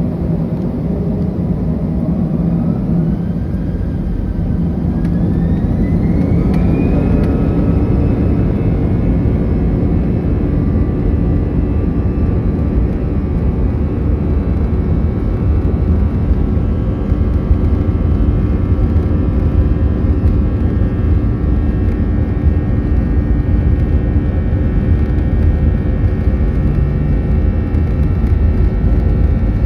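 Airbus A319 jet engines spooling up for takeoff, heard inside the cabin: a whine rises over the first several seconds, then holds steady over a heavy rumble as the plane rolls down the runway at takeoff thrust.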